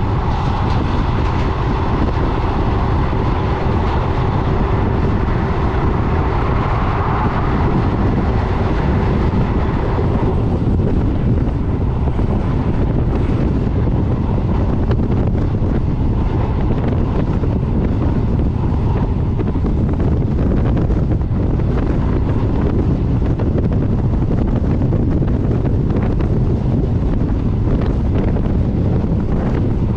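Passenger train running at speed: a steady rumble of wheels on rail, with wind buffeting the microphone.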